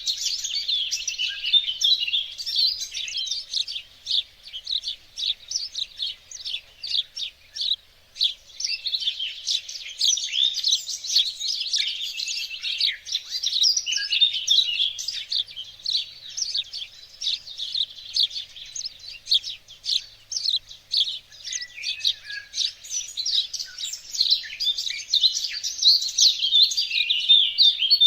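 Several small birds singing at once in a garden chorus, a dense stream of rapid high chirps and trills that never stops, briefly thinning about eight seconds in.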